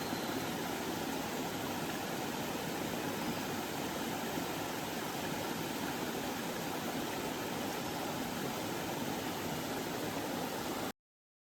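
Mountain stream running, a steady rush of water that cuts off abruptly near the end.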